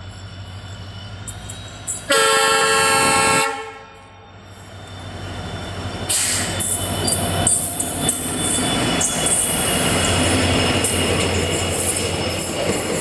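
Diesel locomotive of a passenger train approaching with a rising engine rumble and sounding one loud horn blast of about a second and a half, about two seconds in. About six seconds in it passes close by, and its coaches follow with steady rolling noise and wheel clatter over the rail joints.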